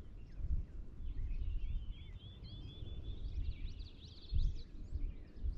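Small birds chirping and calling, with a quick run of repeated slurred notes in the middle, over a steady low rumble; a dull bump a little over four seconds in.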